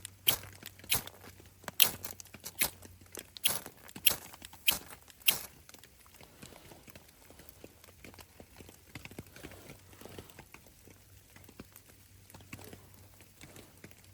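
Footsteps crunching in snow, a sharp crunch about every three-quarters of a second, stopping after about five seconds. Only faint small crunches and rustles follow.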